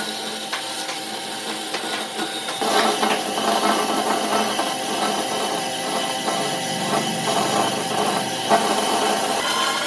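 Power tool working wood, running steadily, with the sound growing louder and denser about two and a half seconds in as it bites into the wood.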